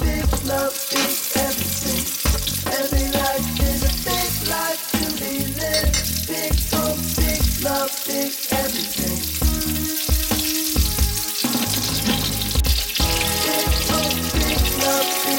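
Food frying in a pan of oil, a steady sizzle, under background music with a beat.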